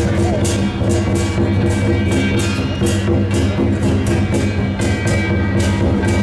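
Lion dance percussion: drum and cymbals struck in a steady beat of about three strikes a second, over a steady low drone.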